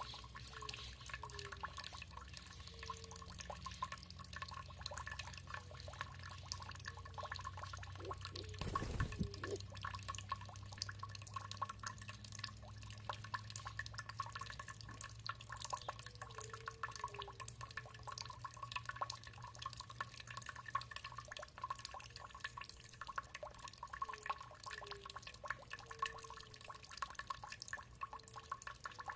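Water dripping and trickling in a dense, continuous patter of small drips, with one low thump about nine seconds in.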